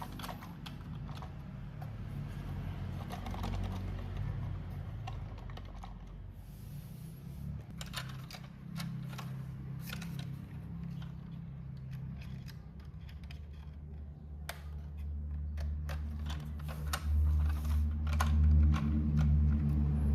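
Model train running on its track: rapid, irregular clicking of the wheels over the rail joints above a low, steady hum, which swells in the last few seconds.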